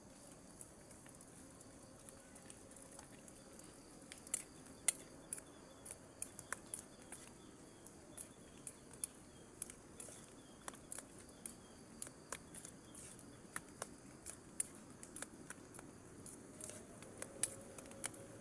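Scattered raindrops tapping on a tarp flysheet, several irregular ticks a second over a faint steady hiss of rain.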